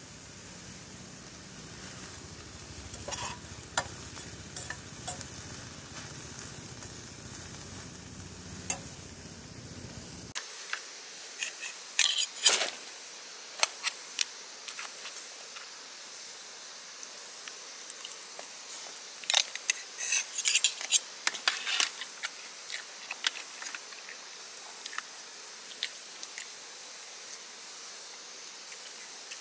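High-pitched insects chirping in regular pulses about once a second, louder from about ten seconds in, with a few brief sharp sounds around the middle.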